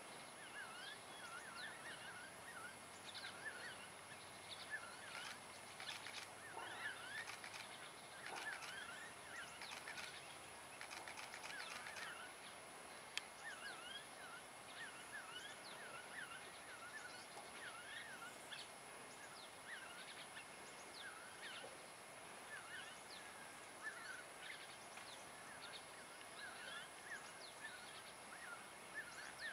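Birds chirping faintly and continuously, with many short, quick notes repeating all the way through.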